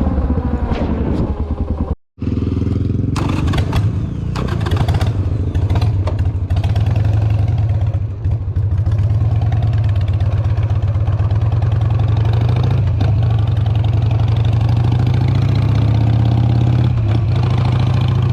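Honda XR650L single-cylinder engine running; its note falls in pitch as the bike slows in the first two seconds. After a brief cut it holds a steady note, with scattered knocks and clatter for a few seconds.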